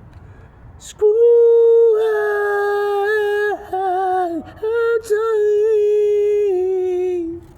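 A lone voice singing a long wordless held note, a cappella, that breaks off briefly twice and slides a little lower near the end.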